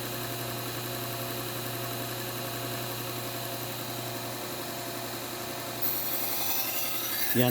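Bucktool slow-speed bench belt sander running steadily with a Trizact belt, a hum with a hiss over it. Near the end a knife blade goes onto the belt and a louder, higher grinding hiss starts.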